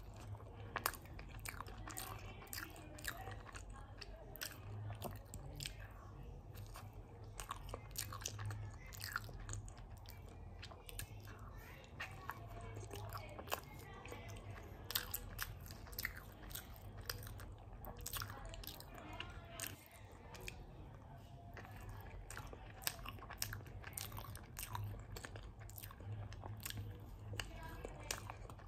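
Close-miked biting and chewing of soft red velvet cake topped with chocolate spread, with many small wet mouth clicks throughout, over a steady low hum.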